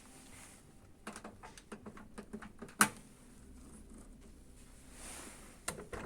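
A run of light clicks and knocks, then one sharp click about three seconds in, and a couple more clicks near the end.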